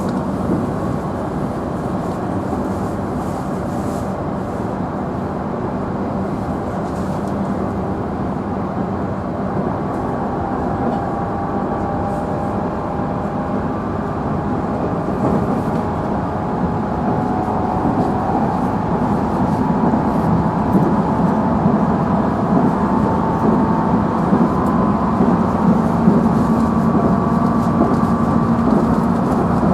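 Running sound inside a JR Central 311 series electric train's motor car: a steady rumble of wheels on rail, with a faint traction-motor whine that climbs in pitch from about ten seconds in as the train gathers speed.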